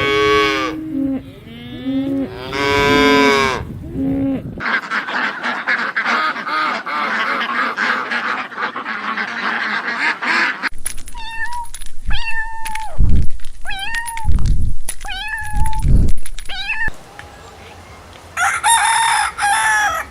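A run of farm animal calls: a few drawn-out pitched calls, then a dense clamour of many animals calling at once for about six seconds, then a series of loud separate calls about once a second, and one more call near the end.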